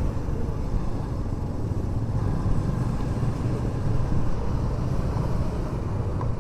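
Motorcycle riding noise: the engine running steadily under a dense low rumble of wind and road noise.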